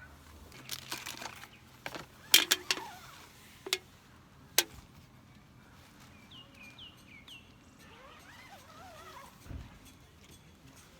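A few sharp clicks and knocks in the first half, then a bird giving four quick falling chirps and a short warbling call.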